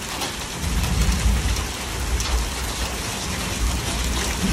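Rain falling steadily on a flooded street, with a low rumble coming in about a second in and continuing under it.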